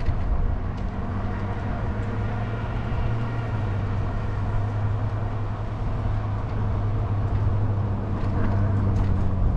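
Velotric Nomad 1 fat-tyre e-bike under way: a steady low hum from its tyres and motor over a continuous rumble, holding even throughout.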